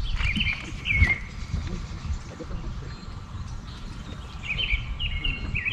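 Birds singing: short warbling phrases repeated near the start and again from about four and a half seconds in, over a steady low rumble.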